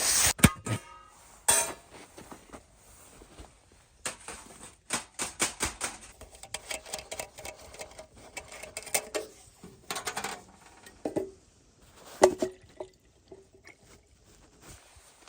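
Irregular knocks and clinks of hard objects being handled, some with a brief ringing. The sharpest knocks come right at the start and again about 12 seconds in.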